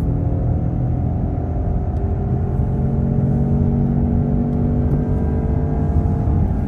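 DS 4's 1.2-litre three-cylinder petrol engine running in Sport mode while driving, heard from inside the cabin: a steady low drone with slight shifts in pitch.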